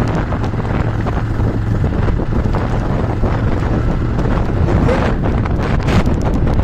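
Wind buffeting the microphone of a phone filming from a moving motorbike, a steady rumble with the bike's running and road noise underneath.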